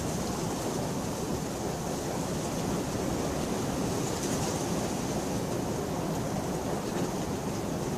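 Steady rain falling, an even unbroken rush of noise with no thunderclap.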